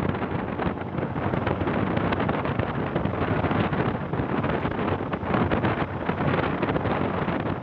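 Wind buffeting the microphone of a moving vehicle, a steady rushing noise over engine and road noise.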